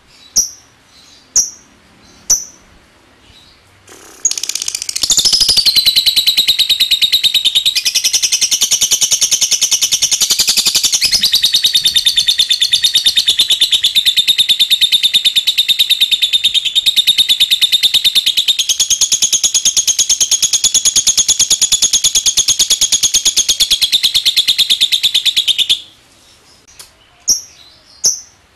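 Lovebird giving sharp single chips about once a second, then breaking into one long, rapid, rattling trill (the 'ngekek') that runs for about twenty seconds, shifting pitch a few times. Near the end it drops back to single chips.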